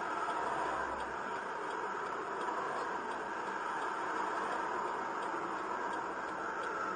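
Steady driving noise of a car on the road, with a few faint ticks.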